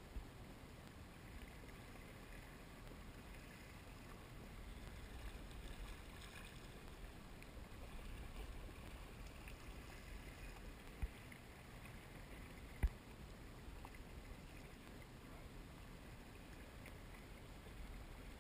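Faint, steady lake-water ambience: small waves lapping against a watercraft's hull, with light wind. Two brief knocks in the second half, the second louder.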